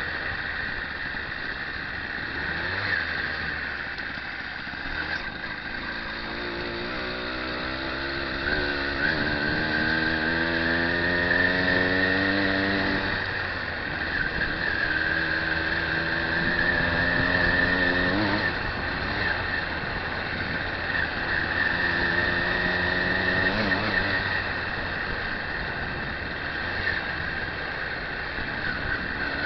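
Motorcycle engine accelerating in several pulls, its pitch climbing and then breaking off as it shifts up through the gears, over a steady high whine and wind noise.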